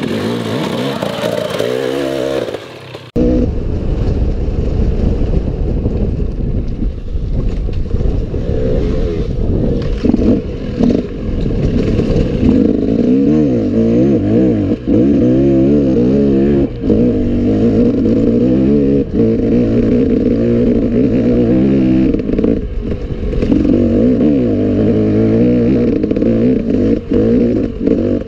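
Enduro motorcycle engine being ridden, revving up and down constantly with rattles and clatter. The recording changes sharply about three seconds in, after which the engine fills the sound.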